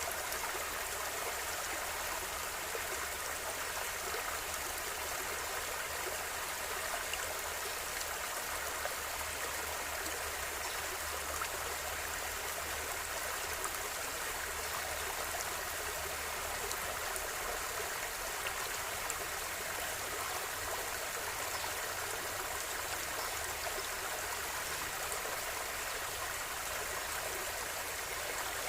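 A river or stream flowing steadily, its water rushing and babbling in an even, unbroken wash.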